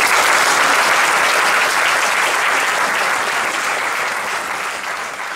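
Audience applauding, breaking out all at once and slowly fading.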